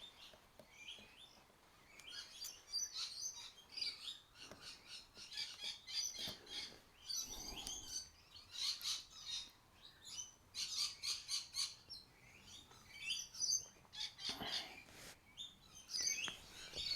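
Small birds chirping and twittering, many short high calls one after another, with a few faint knocks in between.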